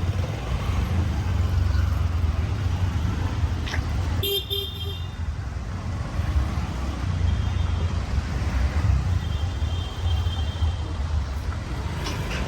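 Street traffic noise with a steady low rumble, and a short car horn toot of a few quick beeps about four seconds in; a fainter horn tone sounds later.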